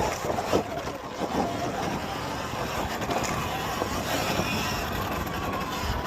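Sur-Ron Ultra Bee electric dirt bike being ridden: a thin motor whine that rises and falls in pitch with the throttle over steady wind and tyre noise, with a few knocks from bumps in the first second and a half.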